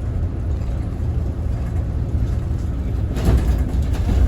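Scania Citywide city bus running, a steady low rumble from its drivetrain and the road. About three seconds in there is a brief, louder burst of noise.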